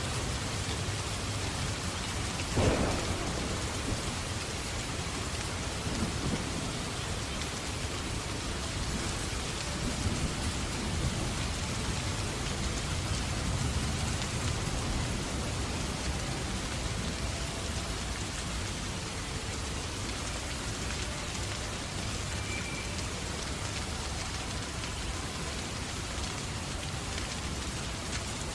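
Steady rain, with a sudden crack of thunder about two and a half seconds in that fades out, and fainter swells a few seconds later.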